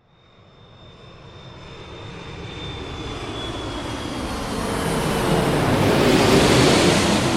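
Fixed-wing airplane approaching and passing by. The sound swells steadily to a peak about six and a half seconds in, then starts to fade. A high engine whine slides slowly down in pitch, and a lower tone drops as the plane goes past.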